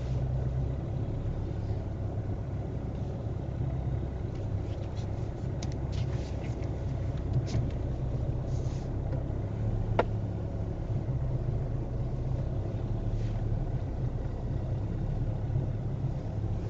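Car engine idling as the car creeps at walking pace, heard from inside the cabin as a steady low hum. A few small clicks are scattered through it, and there is one sharp click about ten seconds in.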